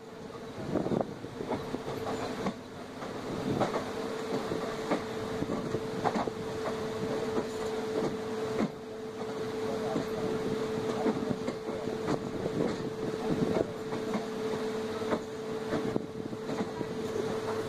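Passenger train running along the track, heard from a coach doorway: a steady rumble with a constant hum, and the wheels clicking sharply over rail joints at irregular intervals.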